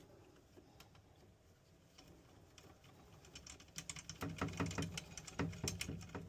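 Quick run of light clicks and rattles from small metal fittings and tools being handled while a pressure-test connection is made and snugged up. It starts a little past halfway.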